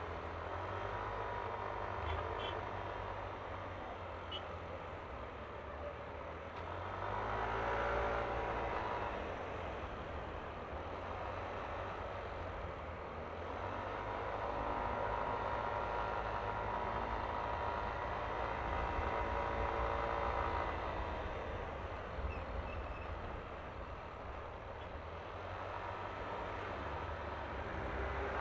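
Yamaha Aerox scooter's single-cylinder engine running on the move, picking up speed about seven seconds in and again for a longer stretch in the middle, easing off in between, over a steady low wind rumble.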